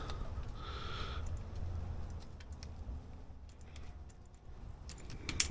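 Scattered light clicks and taps of a hand tool working the distributor hold-down bolt, with a sharper click near the end.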